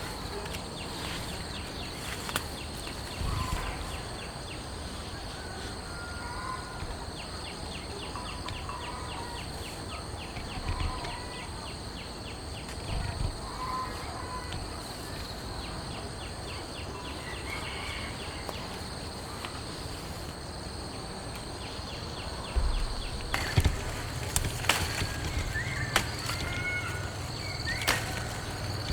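Outdoor nature ambience: insects buzzing and trilling in a steady high whine, with a fast pulsing trill through the first half and scattered short chirps over a steady hiss. About two-thirds of the way in, a run of sharp clicks and knocks starts and becomes the loudest sound.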